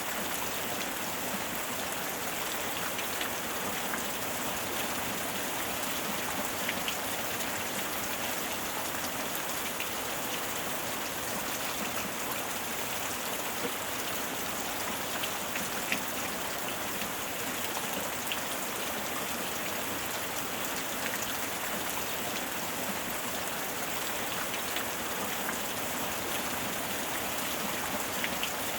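Steady heavy rain falling on a surface, a dense even hiss with many individual drops pattering through it.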